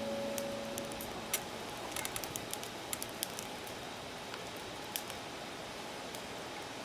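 Wood fire crackling: irregular sharp pops and snaps over a steady hiss, busiest in the first half. The last note of background music ends at the very start.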